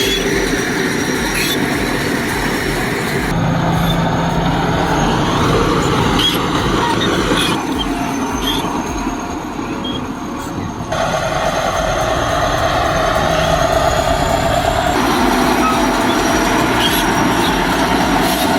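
Crawler bulldozer and tractor diesel engines working under load, with steel track clatter and squeal, in several short clips cut together.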